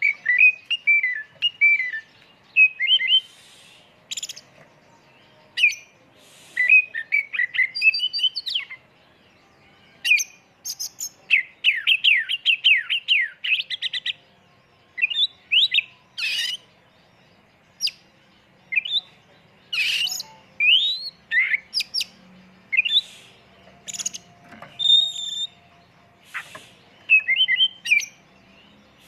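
Oriental magpie-robin (kacer) singing a varied song of short whistled phrases, chirps and sharp notes packed with imitated calls, with a fast run of repeated notes about halfway through.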